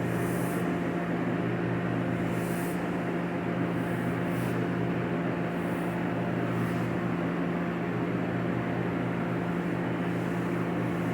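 Steady electric motor hum with airy noise, unchanging throughout, with a few faint short hisses over it.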